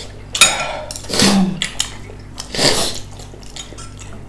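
Eating utensils clinking and scraping against dishes during a meal: one sharp clink about half a second in, then two longer noisy scrapes around one and three seconds in.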